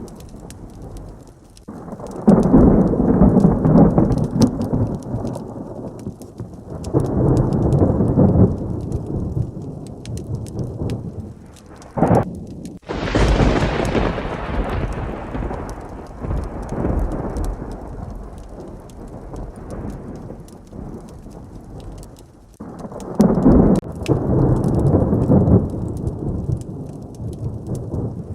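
Thunderstorm with steady rain and repeated thunder. Several low rumbling peals come and go, and about twelve seconds in a sharp crack leads into a loud clap whose rumble fades slowly over several seconds.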